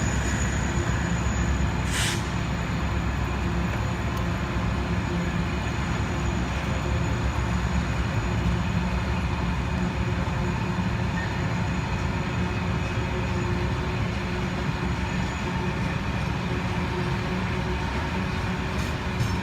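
TCDD DE 33000-class diesel-electric locomotive and its container freight train running with a steady low rumble. A short hiss sounds about two seconds in.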